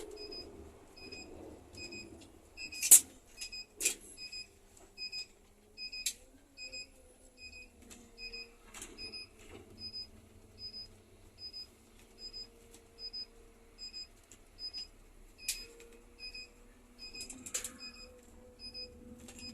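Cab warning beeper of a Scania K310 coach sounding an even run of short high beeps, a little under two a second, most likely the turn-signal indicator buzzer while the bus goes round a roundabout. A faint engine hum and a few sharp knocks from the cab lie beneath it; the loudest knock comes about three seconds in.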